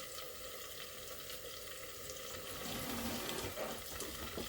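Steady, quiet sizzle of food frying in a pot on the stove, with a few faint stirring sounds in the second half.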